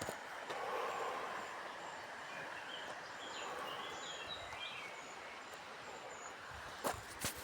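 Outdoor ambience: a steady background hiss with a few short bird chirps in the middle, and a couple of sharp knocks near the end.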